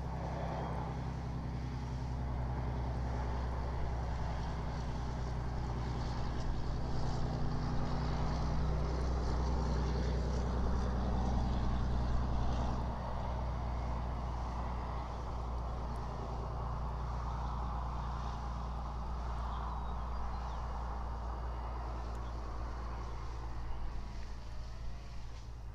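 A motor vehicle engine running, a steady low drone that is loudest in the first half, drops a step about halfway through and fades near the end.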